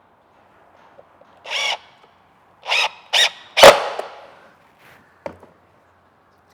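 Cordless drill driving screws into wood in four short bursts, the last the loudest, followed by a light knock.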